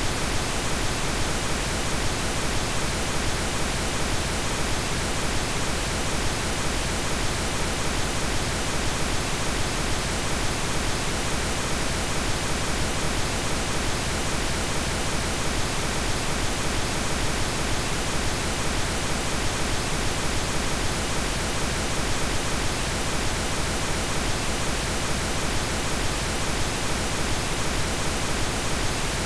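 Generated pink noise: a steady, even hiss spread across the whole range, unchanging throughout.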